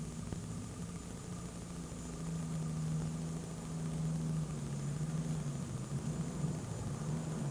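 Diesel engine of a super stock pulling tractor running at a steady pitch, with a slight drop in pitch about halfway through.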